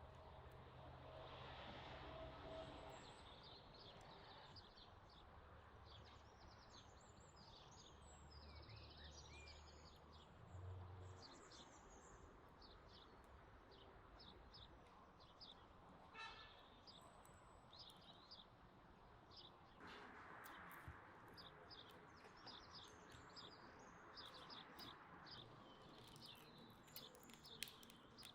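Small birds chirping and singing in many short, high calls over quiet outdoor background noise, with a faint low hum that stops about eleven seconds in.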